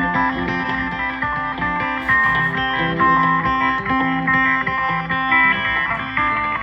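Instrumental guitar music: plucked electric guitar notes over a low bass line, a freshly recorded song with no vocals.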